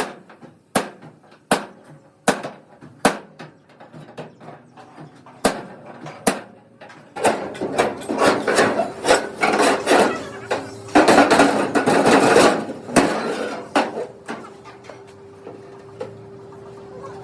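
Hammer blows, four strikes about three-quarters of a second apart and then two more, followed by several seconds of dense scraping and rapid knocking. A faint steady hum comes in about two-thirds of the way through.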